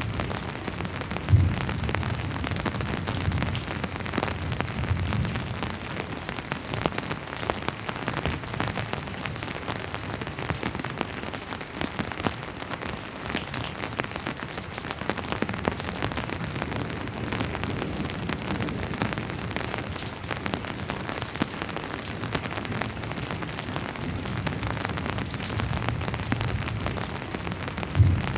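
Steady rain pattering on a surface, a dense even hiss of many drop impacts. Faint low rumbles of distant thunder come in over the first few seconds and again near the end, each with a short low thump.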